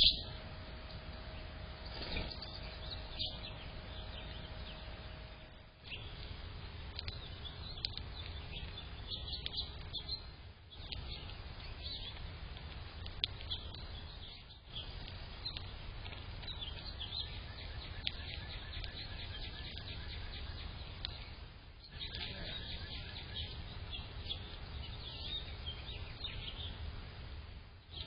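Small birds chirping in brief, high calls scattered throughout, busier near the end, over a steady low background rumble.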